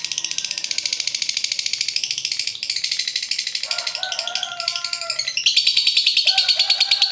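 Lovebird's long, rapid chattering song (ngekek panjang): a fast, high-pitched stream of notes, many to the second, that grows louder about five and a half seconds in. Lower whistled notes join it at times.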